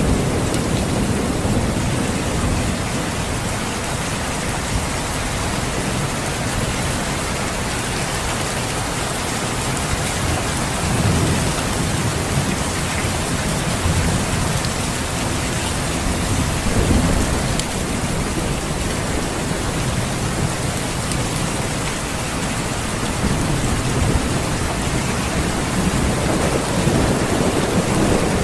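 Steady rain falling, with low rolls of thunder swelling and fading several times, most strongly near the start, around the middle and near the end.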